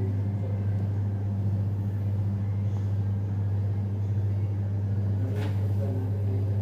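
Steady low machine hum with an even level throughout, and a faint click about five and a half seconds in.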